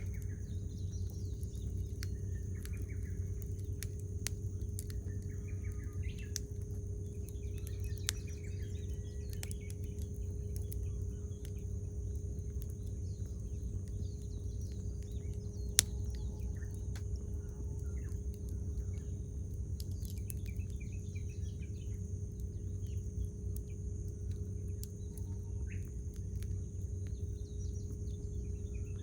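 Campfire crackling, with scattered ticks and snaps and one sharper pop about halfway through, over a steady low rumble. Small birds chirp in short bursts every few seconds.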